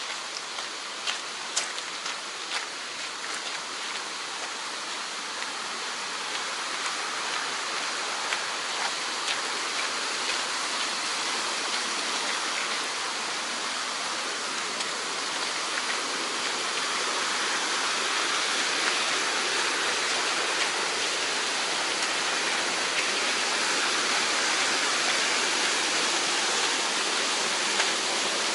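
Mountain stream rushing over rocks, a steady wash of water that grows gradually louder, with a few sharp clicks in the first few seconds.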